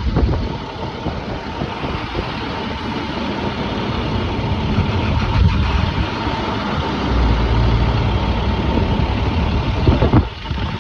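School bus engine running close by, a steady low rumble that grows heavier for a couple of seconds about two-thirds of the way through.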